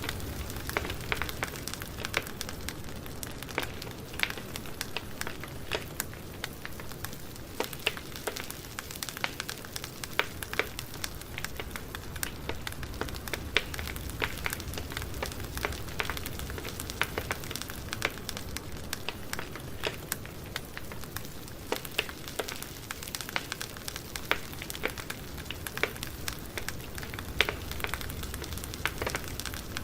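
Campfire burning: wood crackling and popping in irregular sharp snaps over a steady low rumble and hiss of flames.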